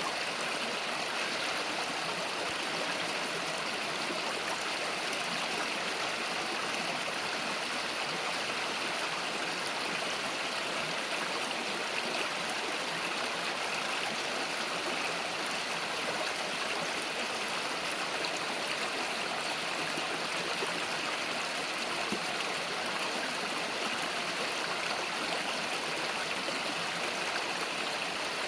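Small countryside river flowing over rocks, a steady rushing and babbling of water.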